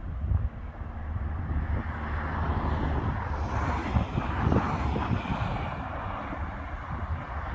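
Jet engine noise of an Airbus A350-900 climbing away after take-off: its Rolls-Royce Trent XWB engines make a steady, rushing rumble that swells slightly midway.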